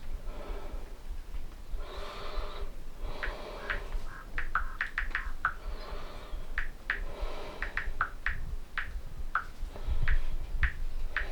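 Irregular short, sharp clicks and ticks, a dozen or more scattered through the quiet, over a faint low rumble.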